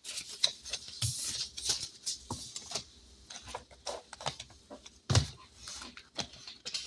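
Paper rustling and light clicks and taps of envelopes and bills being handled and shuffled on a table, with a louder burst of rustling about five seconds in.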